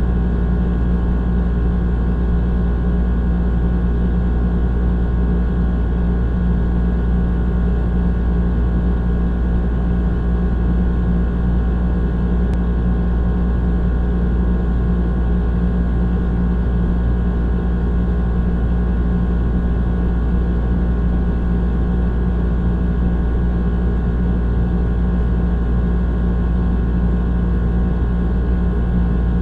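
Old air conditioner running, a steady low hum with a droning tone over a constant rushing noise.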